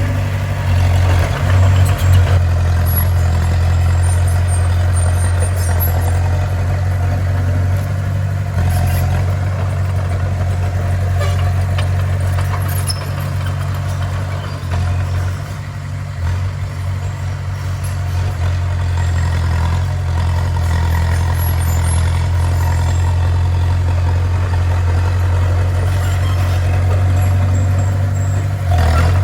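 Bulldozer's diesel engine running steadily with a deep drone, easing off slightly about halfway through.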